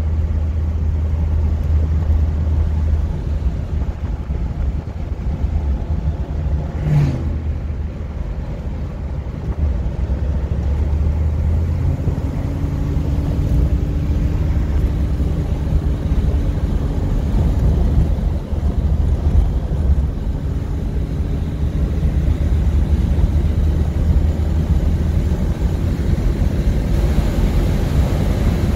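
Inside the cabin of a moving 1978 Corvette Stingray: its newly installed engine runs steadily with a deep drone, under road and tyre noise. The engine eases off a little about a quarter of the way in and then pulls steadily again, with one brief sharp knock around the middle of that lull.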